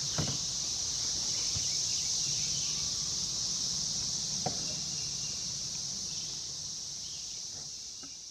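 Steady high-pitched chorus of insects, with a couple of faint clicks, fading out near the end.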